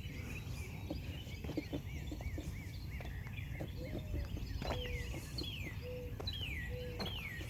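Songbirds singing outdoors: clear whistled notes that slide downward, repeated several times, and a quick run of short chirps in the first few seconds, over a steady low background rumble.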